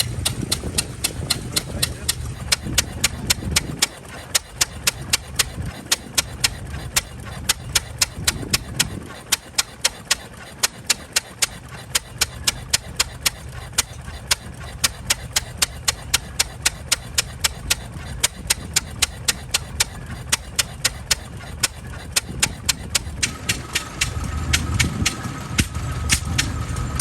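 An engine running with an even, sharp ticking of about four ticks a second over a low rumble, and voices talking at times. A thin steady whine joins near the end.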